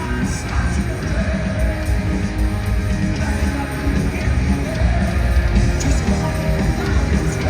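Heavy metal band playing live in a stadium: distorted electric guitars, bass and drums, with singing over the top.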